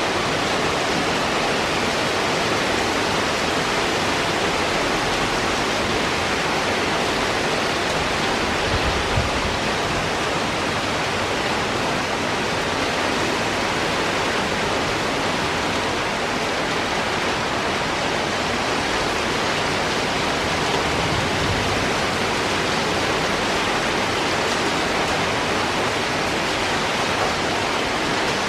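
Heavy rain falling steadily in a downpour, an even dense hiss with no break, and a few faint low thumps around nine and twenty-one seconds in.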